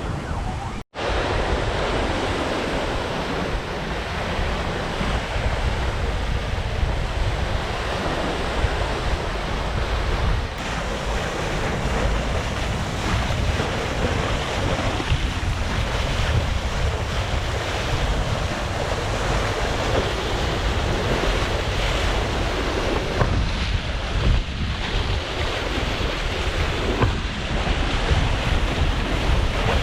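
Wind buffeting the microphone and waves rushing along the hull of a sailboat under sail at speed, a steady wash of noise. A split-second dropout about a second in.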